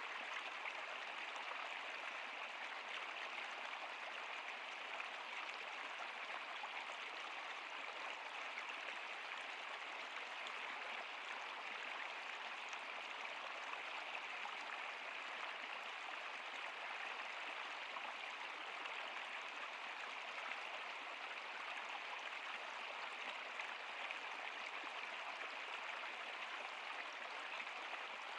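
Steady rushing of a stream or river flowing over rocks, an even hiss strongest in the upper range.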